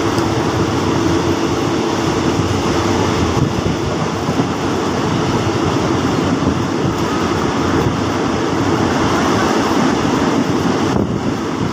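A moving train heard from on board: a steady, loud rumble of wheels running on the rails.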